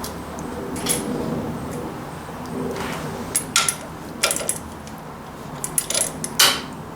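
Metal hand tools and parts clinking and tapping against each other in a series of sharp clicks, most of them in the second half.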